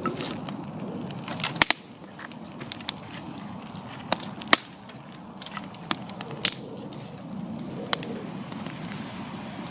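Large wood campfire burning hard: a steady low rush of flames with irregular sharp crackles and pops, the loudest about a second and a half, four and a half and six and a half seconds in.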